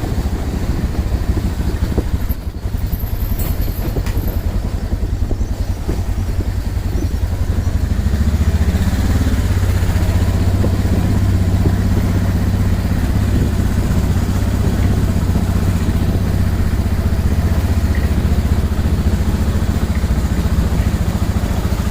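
Motorcycle engine running steadily as the bike rides along, growing louder about eight seconds in.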